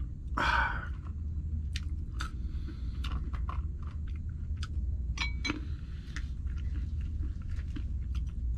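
A person chewing food with crunchy bites and scattered small clicks, over a steady low hum.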